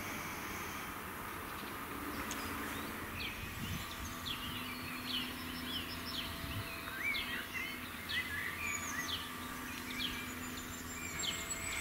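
Small birds chirping and calling repeatedly, many short quick notes, over a faint steady background hum.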